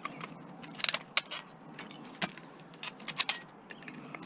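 Irregular metallic clicks and clinks of a tool and small metal parts as the screws are worked out of a juicer's electric motor to take it apart.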